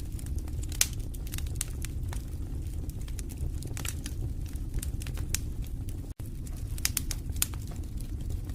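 Wood fire burning in a fireplace: irregular crackles and pops over a steady low rumble of the flames, with a split-second break in the sound about six seconds in.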